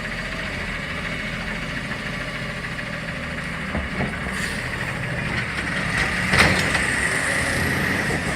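CNG garbage truck engine running at idle under a steady high whine, with a few clicks and one sharp bang about six seconds in.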